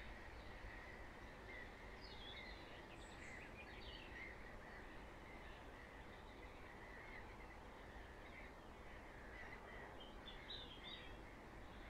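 Faint bird calls and short chirps scattered through a quiet background, a little more of them about two seconds in and again near the end.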